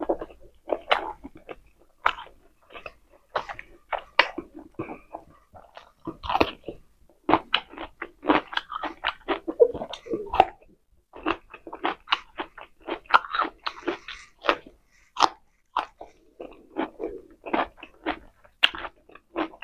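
Close-miked eating: wet chewing and a steady run of sharp crunches, including bites into a raw cucumber spear about halfway through.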